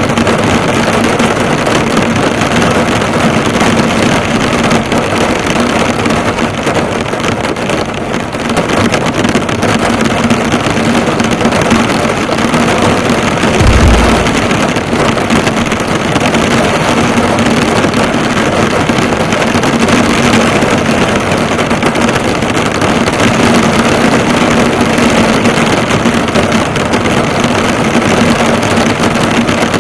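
Heavy rain falling on a car, a dense steady patter of drops hitting the bonnet and roof. A steady low hum runs underneath, and there is a brief low thud about fourteen seconds in.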